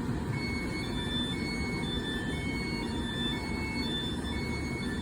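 Danhai light rail tram standing at the platform, with a low steady rumble under a repeating electronic beeping of short high two-tone notes, about once a second.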